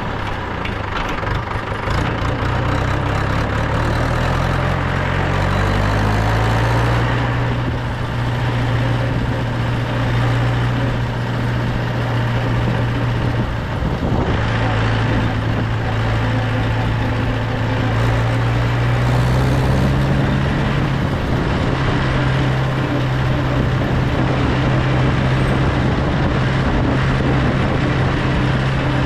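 Mahindra 475 DI tractor's four-cylinder 2730 cc diesel engine pulling while driving, heard from the driver's seat. The engine note climbs over the first several seconds, dips briefly about halfway, then rises again and holds steady.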